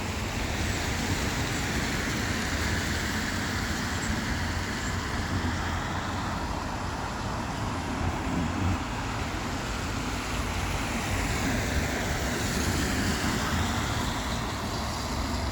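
Road traffic passing on a wet road, a steady hiss of tyres with vehicles swelling and fading as they go by.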